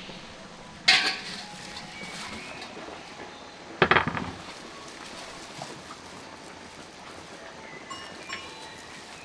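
Cookware and utensils knocking and clattering. There is a loud knock about a second in, then a quick rattle of several strikes about four seconds in, and faint clinks near the end.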